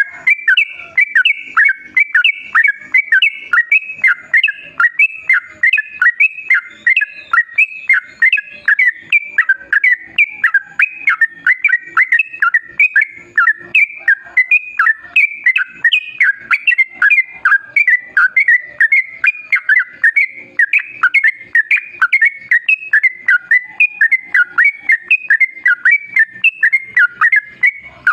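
Yellow-vented bulbul (trucukan) singing a long, unbroken run of quick whistled notes, several a second: the long 'ropel' song used as a lure call.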